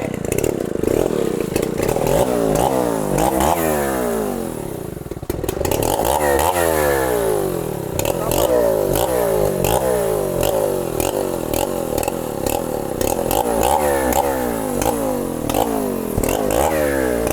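Two-stroke chainsaw running hard in a cut through a very thick tree trunk, its engine pitch repeatedly swinging up and down. There is a short dip about five seconds in.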